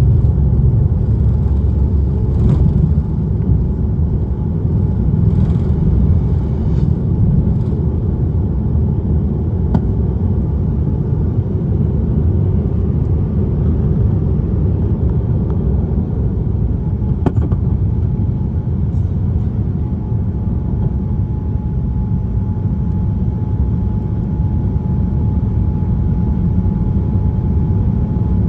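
Airliner cabin noise inside a Boeing 787-10: a loud, steady low rumble of engines and airflow, with a few light clicks in the first several seconds and a faint steady tone joining it after about twenty seconds.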